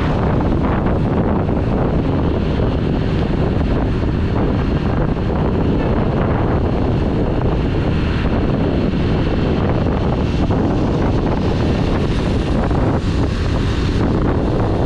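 Steady wind rushing over the microphone of a Yamaha YBR125G motorcycle under way, with the bike's running noise underneath.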